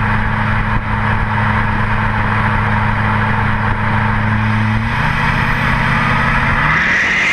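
2008 LMM Duramax 6.6-litre turbodiesel V8 running through a straight-pipe exhaust with the cat, DPF and muffler deleted. Its steady drone drops in pitch twice near the end, and a high whistle rises in over the last two seconds.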